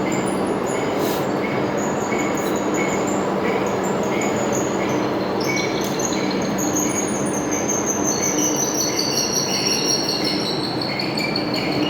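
Metal-turning lathe running under a cut, a steady mechanical din with short repeated high tones. In the second half a high-pitched squeal glides slowly downward.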